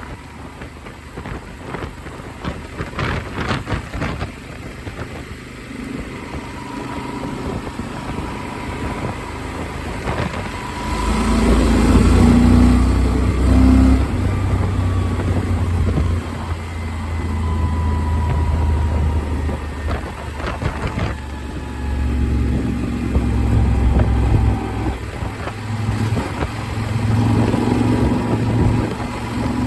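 Motorcycle ridden at speed, its engine running under wind rushing over a helmet-mounted microphone. The engine gets louder about a third of the way in, eases off, and comes up again near the end.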